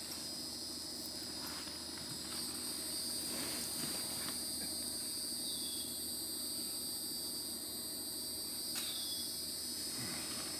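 Steady high-pitched chorus of insects singing, with a few soft knocks and rustles of handling and three short falling chirps.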